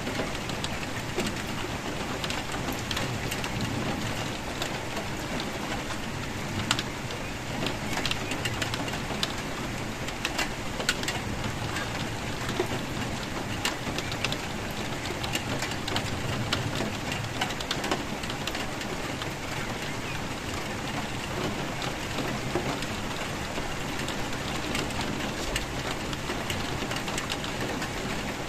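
Steady rainfall with individual drops ticking and pattering sharply on a hard surface.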